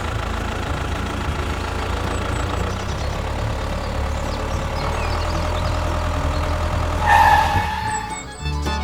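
Tractor engine idling steadily with a low rumble, with a brief higher tone about seven seconds in.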